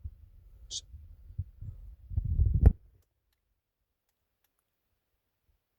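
Low rumbling and rubbing with a few soft knocks, like a handheld recorder being handled, building to a heavy bump and a sharp click about two and a half seconds in; then the sound cuts out to dead silence.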